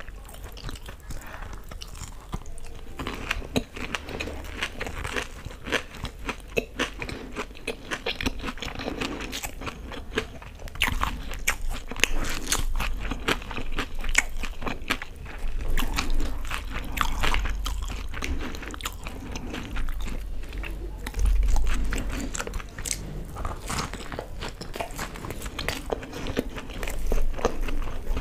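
Close-miked chewing and biting of batter-fried pakoras coated in green chutney, with a steady run of irregular crisp crunches and crackles.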